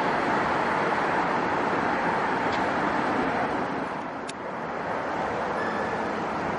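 Steady rushing roar of passing vehicles, dipping briefly about four seconds in.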